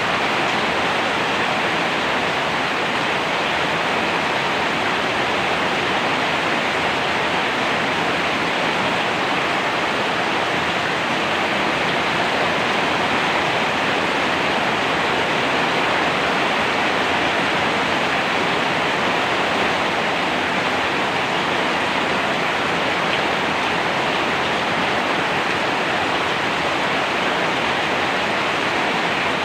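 Steady heavy rain falling, a dense even hiss with no breaks or separate drops standing out.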